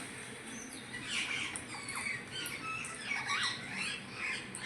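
Parrot giving a series of short squawks and chirps, each call sliding up or down in pitch, in clusters about a second in, around two seconds, and again between three and four seconds.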